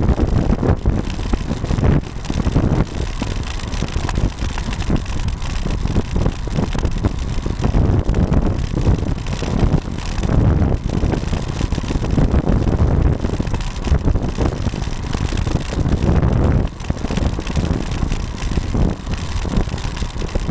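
Wind buffeting the microphone of a camera mounted on a moving road bicycle. It makes a loud, gusty low rumble throughout, with frequent short jolts.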